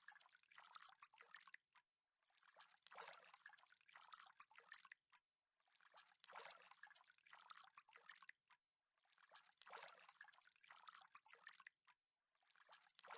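Near silence with faint, irregular trickling and dripping of water at the edge of a mostly frozen lake.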